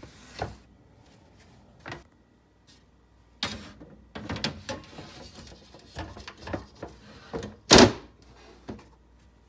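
A removable refrigerator part being handled and wiped down: scattered knocks, rubbing and clatter, with one loud knock about three-quarters of the way through.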